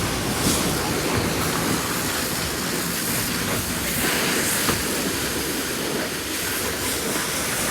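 Pressure-washer jet spraying water, a steady hiss with a few brief louder surges.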